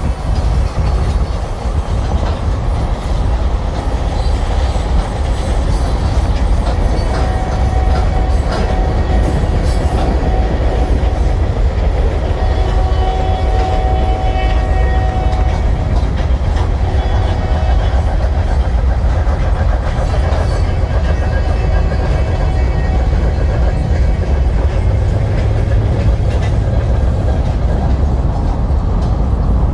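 Union Pacific weed sprayer train rolling along the rails: a steady low rumble with wheels clicking over the track, and a faint thin tone for a few seconds near the middle.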